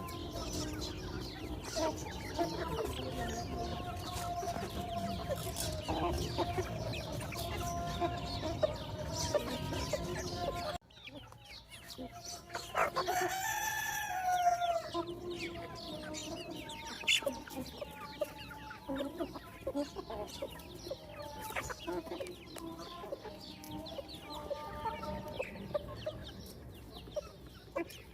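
Chickens clucking, with a rooster crowing once partway through, a long call that rises and falls over about two seconds and is the loudest sound. A low steady rumble under the clucking in the first part stops suddenly.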